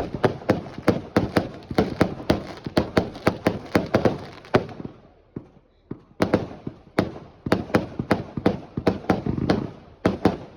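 Fireworks going off in rapid succession, sharp bangs about three a second. They stop for about a second and a half around the middle, then start again.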